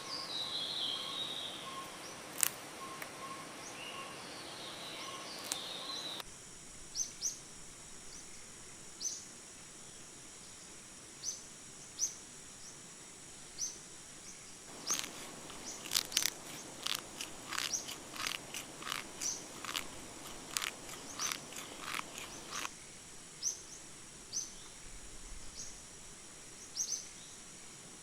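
Rainforest ambience: a steady high insect drone, short chirps repeating about once a second, and a bird warbling in the first few seconds. A run of sharp clicks comes in the middle stretch, and the background changes abruptly a few times.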